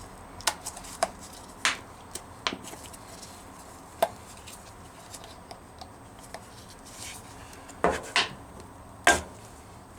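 Irregular clinks and knocks of tools and parts being handled at a workbench: about eight sharp, separate strikes spaced unevenly, the loudest near the end.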